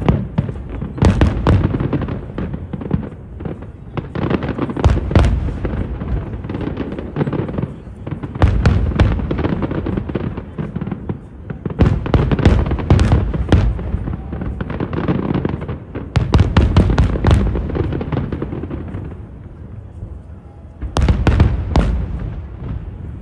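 Fireworks display: a dense, irregular barrage of aerial shell bursts and crackling reports, with a heavy low rumble. It eases for a moment about four-fifths of the way through, then a fresh cluster of loud bangs follows.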